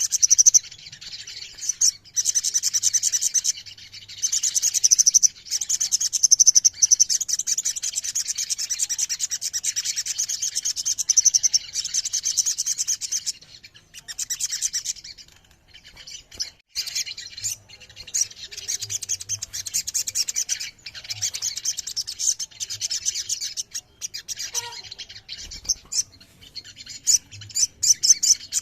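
Several little spiderhunters (sogon) calling together in dense, rapid high-pitched chattering trills, broken by short pauses.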